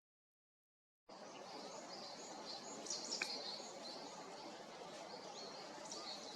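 Small birds chirping, many short high calls overlapping, over a steady hiss of outdoor ambience that starts suddenly about a second in. A single sharp tick sounds near the middle.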